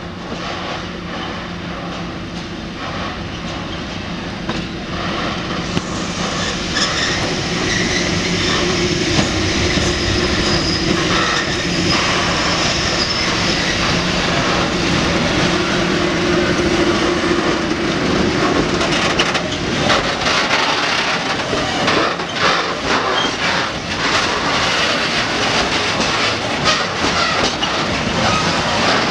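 Diesel locomotive hauling a freight train past at slow speed, its engine running with a steady hum that is loudest through the first two-thirds. From about two-thirds of the way through, the loaded hopper wagons' wheels clack rhythmically over the rail joints.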